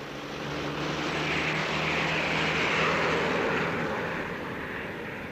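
Sound effect of an aircraft in flight: a steady engine rush that swells to a peak about three seconds in, then fades.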